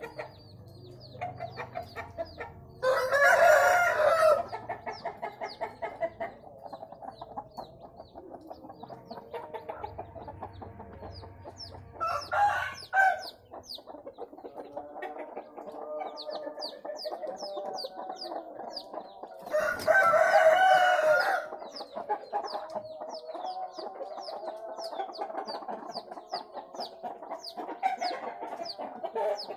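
Game-fowl roosters crowing: two long loud crows, about three seconds in and again about twenty seconds in, and a shorter crow around twelve seconds, over continuous clucking from the flock. Quick high chirps repeat through the second half.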